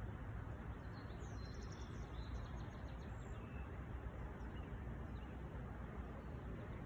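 Strong wind blowing across the microphone: a steady low rumble over a hiss of wind noise. Faint bird chirps come through between about one and three and a half seconds in.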